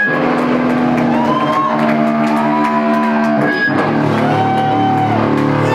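Rock band playing live: electric guitars hold chords under a lead line with bent notes, over bass and drums.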